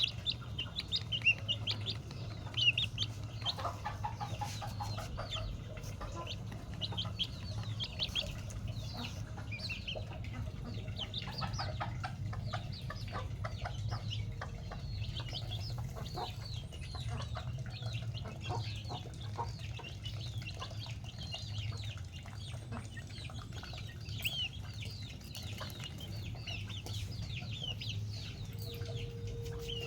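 Chickens clucking, with many short, high chirps running all through and a steady low hum underneath.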